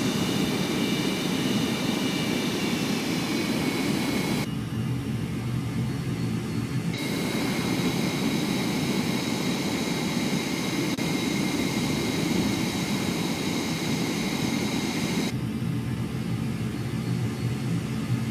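Blue Angels F/A-18 jet engines running: a steady high whine over a low rumble. The whine drops out abruptly about four seconds in, comes back a couple of seconds later, and drops out again near the end, leaving only the rumble.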